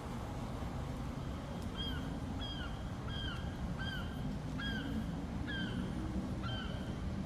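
An animal, likely a bird, gives about eight short calls, each rising then falling, repeated evenly a little more than once a second from about two seconds in. Underneath runs a steady low hum and rush from a waterfall and a distant rooftop MRI chiller machine.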